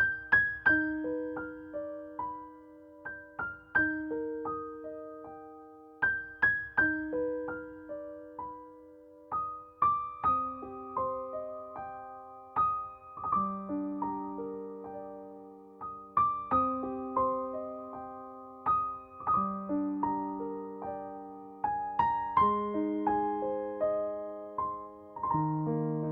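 Background music: a slow, gentle piano melody of single struck notes and soft sustained chords, each note fading away, with the harmony moving lower in the second half.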